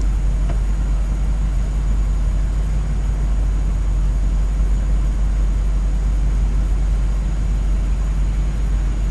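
1959 Cadillac's 390 V8 idling, a steady low rumble with a fast, even pulse.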